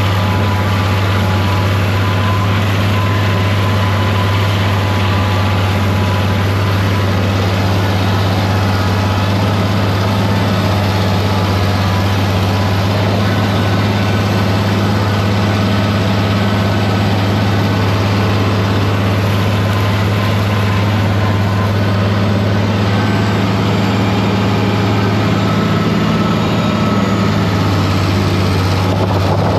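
Farm tractor engine running steadily at a constant speed, a loud low drone with a slight change in its note near the end.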